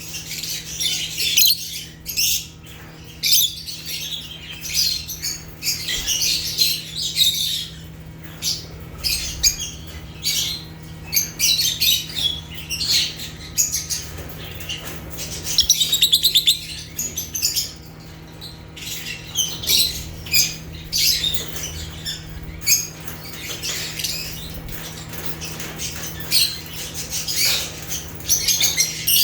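A group of lovebirds chirping and chattering, with rapid, overlapping high-pitched calls and short squawks, over a steady low hum.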